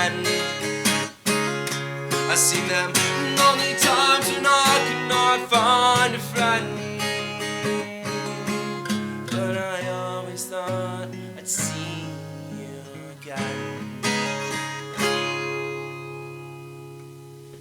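Acoustic guitar playing the closing instrumental of a folk song: picked and strummed notes that slowly grow quieter, ending on a final chord struck near the end that rings out and fades.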